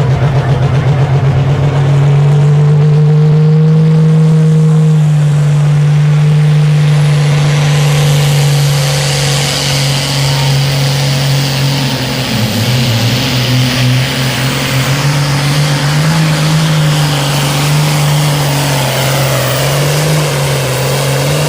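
Super Sport class pulling tractor's diesel engine running hard at high revs under load, its pitch holding steady and then dipping and wavering about twelve seconds in. A high hiss and whine builds from about eight seconds.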